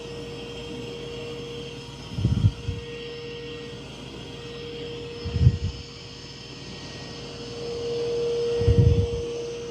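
Mova V50 robot vacuum running on carpet: a steady fan whine holding one pitch. Three dull low thumps come about three seconds apart.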